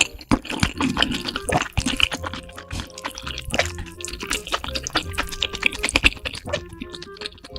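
Close-miked wet slurping and chewing of sauced noodles: a dense, irregular run of small wet smacks and clicks.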